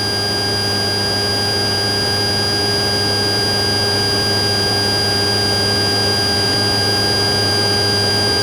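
Steady drone of a light patrol airplane's engine and propeller heard inside the cockpit through the onboard recording, with a constant high whine over it.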